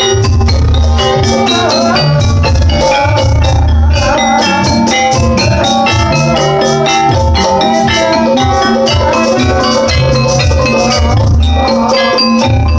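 Javanese jaranan gamelan music: struck metal keys and gong-chimes ringing in a quick, steady pattern over repeated deep drum beats.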